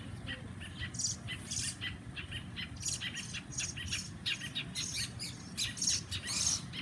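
Several small birds chirping and squawking in quick, repeated short calls: the birds are mad at a cat that has caught and wounded one of them.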